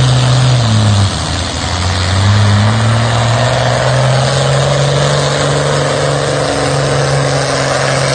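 Pulling tractor's engine running loud; its pitch drops about a second in, then rises again and holds steady.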